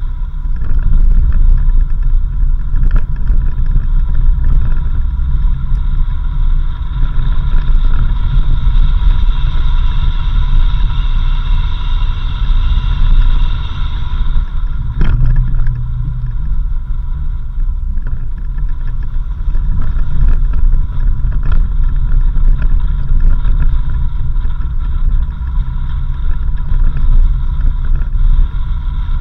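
4x4 vehicle driving on a dirt road: a steady low rumble with a constant whine, and scattered knocks and rattles from the rough surface.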